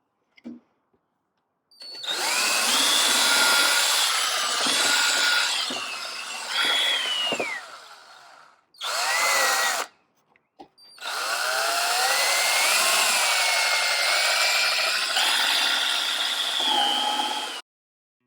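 Power drill boring pilot holes into the wooden gate frame at marked spots: three runs, a long one, a short one a moment later and another long one, the motor's pitch rising and falling as the trigger is eased and the bit cuts.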